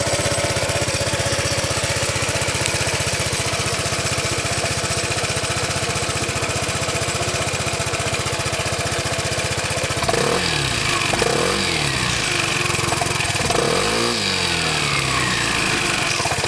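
Vespa 300 GTS Super's single-cylinder four-stroke engine idling steadily through its stock exhaust just after a cold start. From about ten seconds in, the throttle is blipped several times, each rev rising and falling back to idle.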